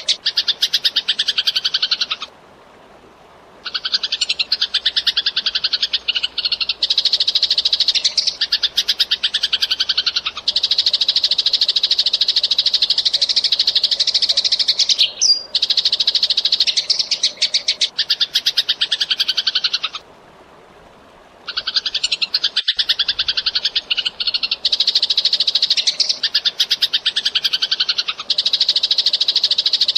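Eurasian tree sparrow (burung gereja) chirping in a fast, dense, unbroken chatter, stopping abruptly twice for a second or so, about two seconds in and about twenty seconds in.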